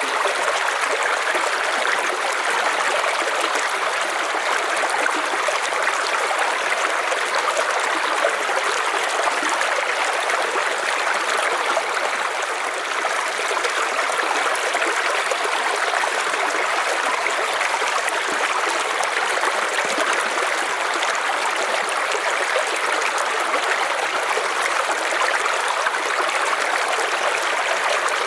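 River water flowing over stones in a steady rushing stream.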